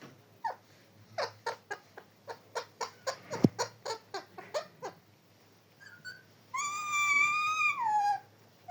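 Pet parrot calling: a quick run of short, sharp chirps, about three or four a second, for some four seconds. After a pause it gives one long drawn-out call that drops in pitch at the end.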